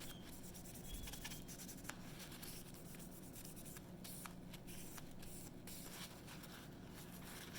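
Faint rubbing and scratching of a knife blade being wiped clean with acetone, scrubbing off caked-on grime.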